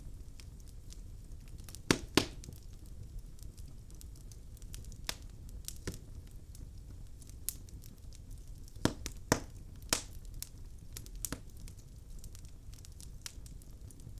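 Burning logs in a fireplace crackling: irregular sharp pops over a low steady rumble of the fire, with the loudest pops coming as a close pair about two seconds in and again around nine seconds.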